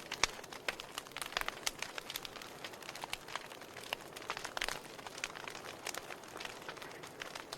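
Wood fire in a fireplace crackling: irregular sharp pops and snaps from the burning logs over a steady soft hiss.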